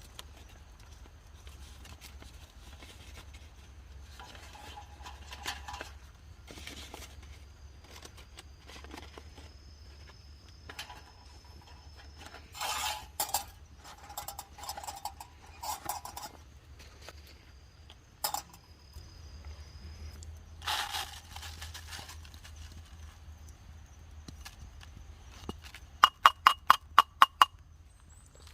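Metal camp cookware and utensils being handled: scattered clinks, scrapes and short rattles, then near the end a quick run of about eight sharp ringing metallic strikes. A faint steady high tone lies behind.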